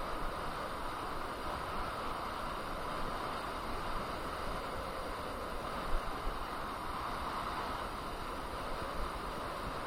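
Steady rush of riding noise from a KingSong KS18S electric unicycle under way, wind and tyre noise with a steady hum, and a couple of small knocks about six seconds in.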